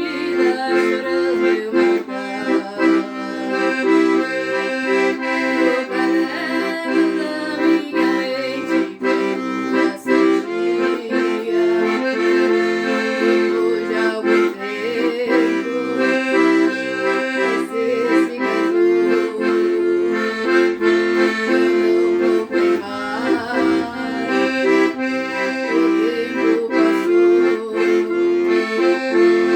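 Instrumental music led by an accordion, playing steadily with a regular beat.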